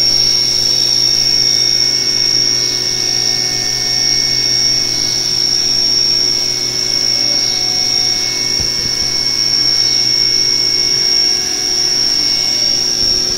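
Haas VF-3 CNC vertical machining center running through a program with the coolant off: a steady high-pitched whine over a constant low machine hum.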